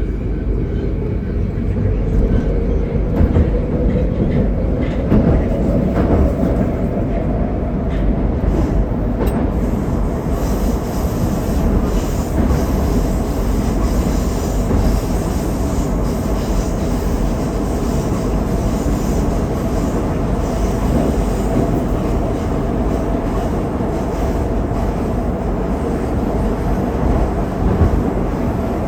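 81-761 'Oka' metro car running through a tunnel, heard from inside the car: a steady loud rumble of wheels on the rails, with the motor whine rising in pitch over the first several seconds.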